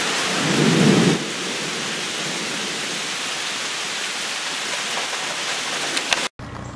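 Heavy thunderstorm rain pouring down on woodland trees in a steady, loud hiss. A short low rumble comes about half a second in.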